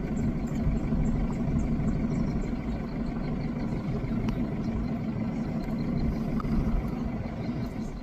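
A safari vehicle's engine running steadily, a low continuous hum that drops away abruptly near the end.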